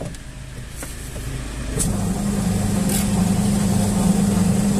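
A Singer washing machine's wash motor is switched on and hums steadily from about two seconds in. Its drive belt to the impeller pulley is worn and very loose, so the impeller turns slowly.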